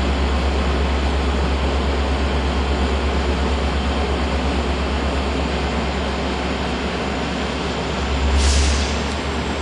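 Metra commuter train of bilevel gallery cars starting to roll away from the station platform, a steady rumble throughout. A short hiss comes about eight seconds in.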